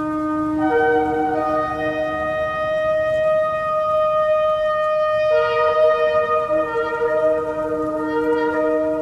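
Shofar blasts: long held notes at several pitches sounding together, one note giving way to another about a second in and again about five seconds in, over a faint low hiss.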